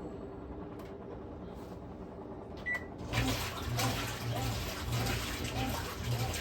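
Electrolux LM08A top-loading washing machine: a low steady hum, a click about three seconds in, then a loud rush and slosh of water with a regular pulse, about one to two a second.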